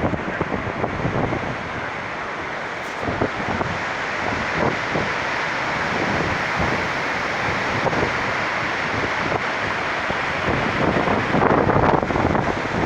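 Strong storm wind buffeting the microphone in irregular gusts, louder near the end.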